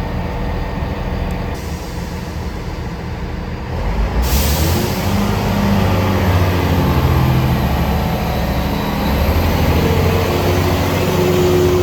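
A diesel train's engine running, joined about four seconds in by a sudden loud hiss that carries on to the end, the sound growing louder as it goes.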